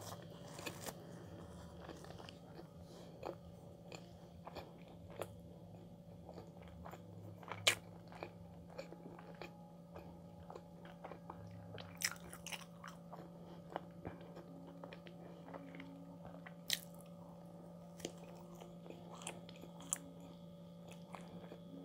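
A person chewing soft cheese bread close to the microphone, mouth closed: quiet chewing with scattered sharp mouth clicks, the loudest about 8, 12 and 17 seconds in.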